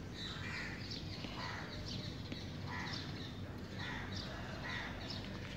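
Birds calling over and over, short calls at several pitches about twice a second.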